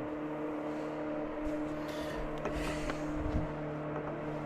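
A boat motor running with a steady hum, with a few faint knocks and clicks over it.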